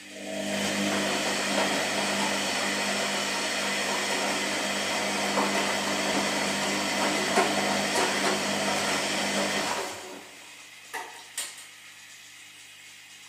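Washing machine running with a steady mechanical rush for about ten seconds, then stopping, followed by two sharp clicks.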